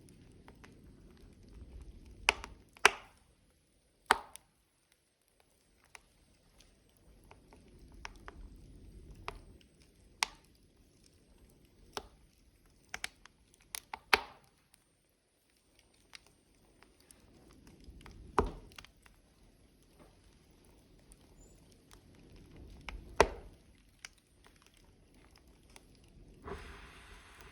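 Burning logs crackling in a wood fire, with irregular sharp pops and snaps over a soft low rumble of flame.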